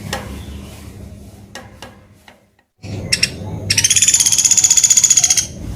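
Pelatuk beras woodpecker calling: a few high notes, then a rapid, high, rattling trill lasting under two seconds, beginning about halfway through after a brief dropout.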